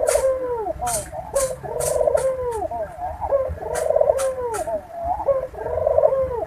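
Barbary doves (puter) cooing their breeding coos, a phrase of arching, rolling notes about every two seconds, the call used to bring doves into breeding condition. Sharp ticks come between the coos.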